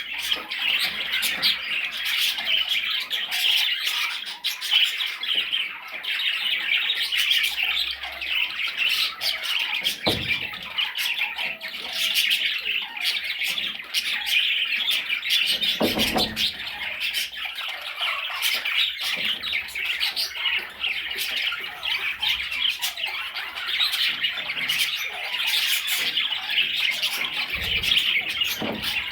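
Budgerigar chattering and warbling without a break, a dense run of squawks and chirps. Two short low thumps come about a third and just over halfway through.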